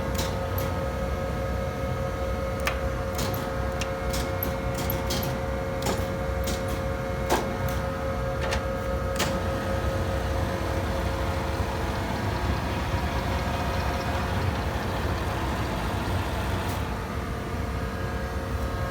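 1967 Rockford hydraulic open side planer running, its hydraulic drive giving a steady machine hum with several fixed tones. A run of sharp clicks and ticks falls in the first half, and a hiss builds in the second half before dropping away near the end.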